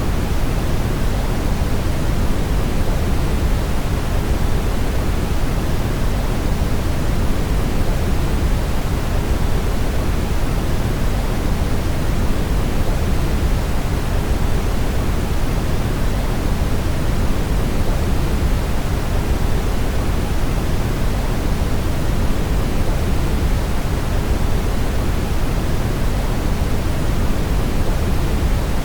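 Steady brown noise: an even, unchanging rush, deepest and strongest in the low end and thinning toward the highs.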